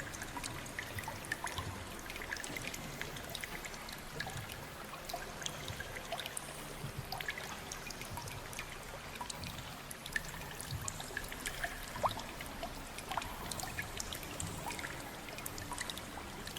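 Water trickling and pouring, with many small irregular drips.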